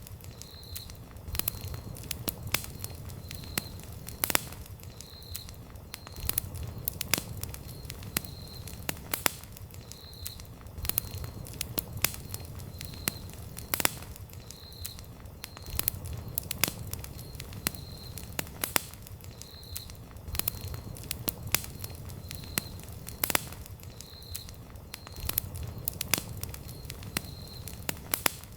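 Wood campfire burning, with sharp irregular crackles and pops over a low rumble of the flames. A faint short high chirp repeats about once a second throughout.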